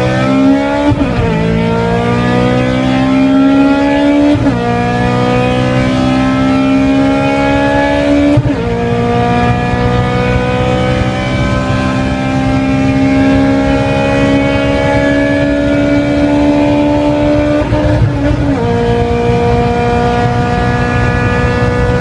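Honda K20 2.0-litre inline-four engine accelerating hard up through the gears: the note rises steadily, drops sharply at each of four gear changes, and climbs more slowly in each higher gear.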